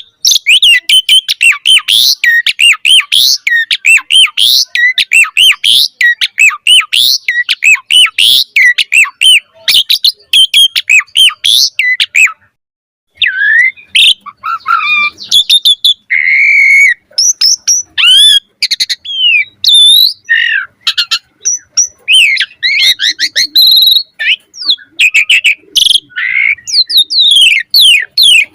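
Asian pied starling singing a fast, varied song of sliding whistles, chirps and harsh squawks, almost without pause, with a brief break about twelve seconds in.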